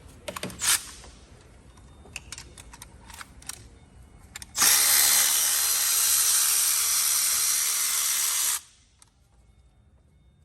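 Light clicks and knocks of tool handling, then a handheld power tool runs steadily for about four seconds and cuts off sharply. It is undoing the fastener that holds the exhaust camshaft solenoid in the engine.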